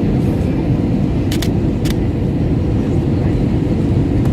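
Steady low roar of airflow and engines heard from inside the cabin of an Airbus A320 on its landing approach, with a couple of faint high clicks about a second and a half in.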